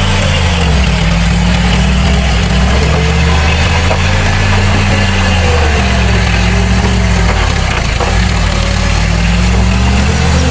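Heavy diesel engine of earthmoving machinery running steadily, its pitch rising and falling gently a few times.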